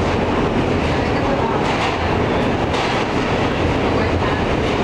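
Alstom R160A New York City subway car running on the track, heard from inside the car: a steady rumble of steel wheels on rails with a few faint clicks.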